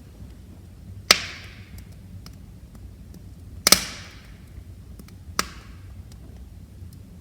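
Wood fire crackling in a fireplace: three sharp pops from the burning logs, about a second in, near the middle and past five seconds, with faint small ticks between them over a steady low rumble of the flames.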